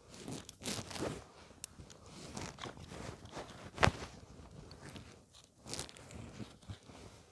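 Crunching, rustling and snapping of sticks and kindling at a campfire being built and lit, with one sharp snap about four seconds in.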